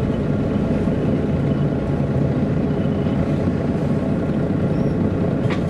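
Steady engine and running noise heard from inside a 1999 MAN A23 NG313 articulated diesel city bus under way, a low, even drone, with a faint click near the end.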